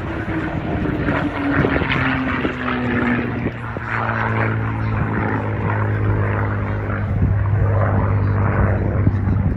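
Propeller aircraft's engine droning as it flies past, its pitch falling over the first few seconds and then holding steady.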